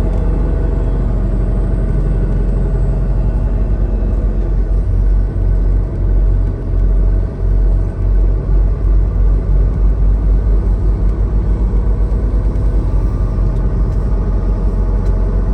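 Semi-truck cab noise on the move: a steady low engine and road rumble. About five seconds in, a low pulsing beat comes in and quickens toward the end.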